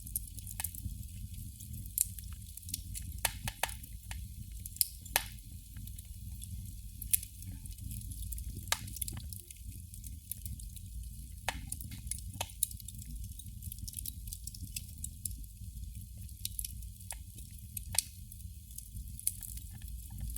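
Candle flame crackling: irregular small clicks and pops, a few of them sharper and louder, over a steady low rumble.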